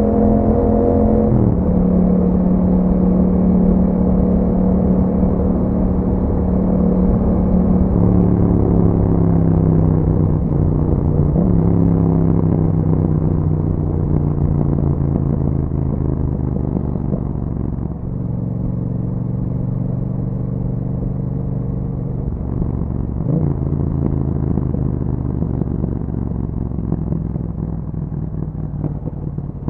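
2021 Yamaha MT-07's 689 cc parallel-twin engine running through an Akrapovic exhaust while riding. Its note climbs and then steps down in pitch about four times as the gears change.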